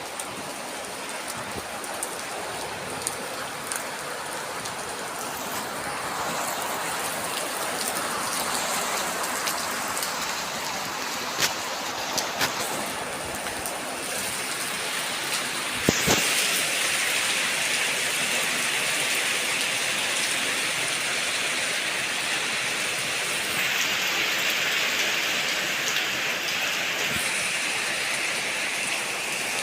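Heavy rain pouring steadily, with a few sharp taps standing out; the loudest comes about sixteen seconds in, and the rain sounds a little heavier from then on.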